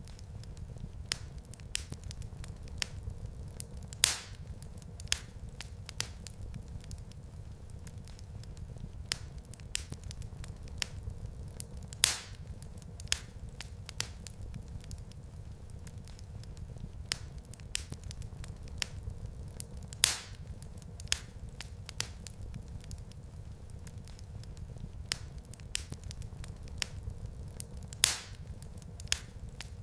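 Wood fire crackling, with many small snaps, a louder pop about every eight seconds, and a steady low rumble underneath.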